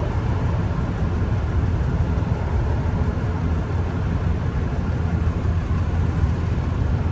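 Steady low rumble of a vehicle engine idling, even and unchanging throughout.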